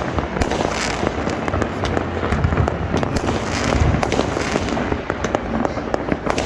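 Citywide New Year fireworks going off from many directions at once: a dense, irregular stream of sharp cracks and pops over a continuous rumble of distant bangs.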